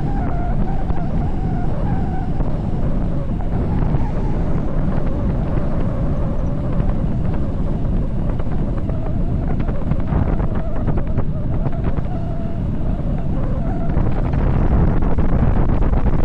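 Wind rushing loudly over the microphone of a bicycle descending at high speed, with a faint wavering whine through much of it.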